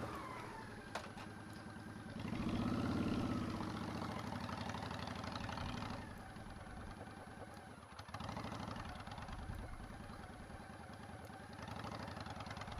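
Motorcycle engine running at low speed on a practice run. It revs up about two seconds in, eases off around six seconds, and picks up again after a brief dip near eight seconds.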